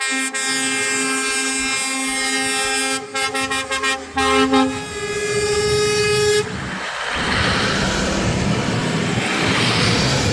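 Truck air horns sounding in a long held blast, broken by a few short toots about three to four seconds in and cutting off about six seconds in, followed by the steady engine and tyre noise of passing trucks.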